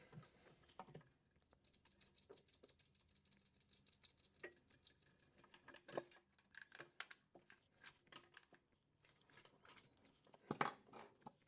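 Faint, scattered small clicks and taps of small electronic parts and wires being handled and plugged in, with a louder knock near the end.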